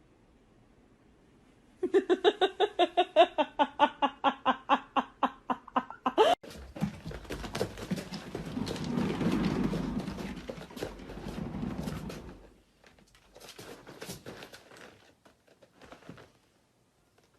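An animal calling in a quick run of short pitched pulses, about seven a second, for about four seconds, followed by a longer stretch of rustling noise with scattered knocks.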